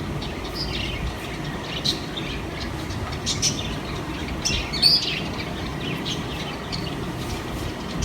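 Small pet parrots in an aviary chirping in short scattered calls over a steady low rumble.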